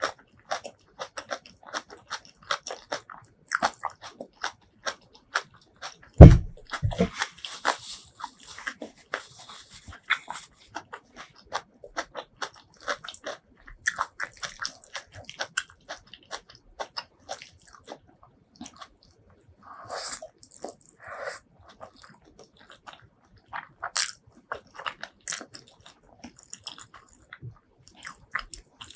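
Close-miked eating sounds: a person biting and chewing crunchy food, with many sharp crackling crunches. About six seconds in there is one loud low thump.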